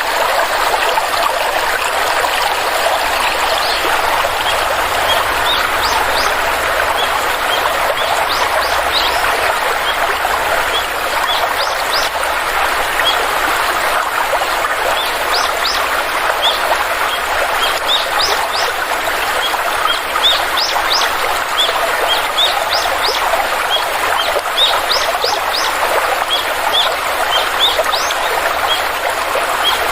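Steady rush of a flowing stream over rocks, with a small bird giving many short, high, rising chirps over it from about four seconds in.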